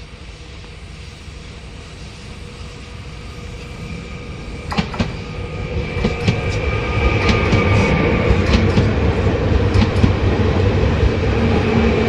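Train approaching and passing on a curve: a low rumble grows steadily louder, and from about halfway in the wheels click sharply over the rail joints, with a steady high ring from the wheels on the curved track.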